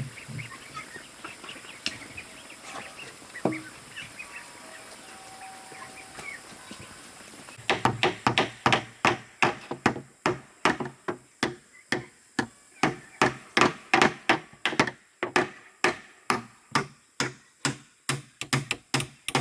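Farm fowl calling faintly, then from about eight seconds in a long run of sharp blows on wood, about two or three a second with brief pauses, as timber is worked for a pigeon house.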